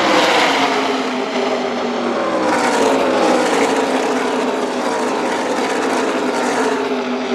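A pack of NASCAR Camping World Truck Series race trucks running past at speed, their V8 engines blending into one loud drone. The engine notes slide down in pitch as the pack goes by and away, then hold steadier near the end.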